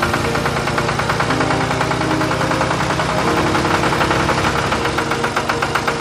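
Small tractor's engine running steadily with an even, rapid pulse, its pitch shifting slightly a few times.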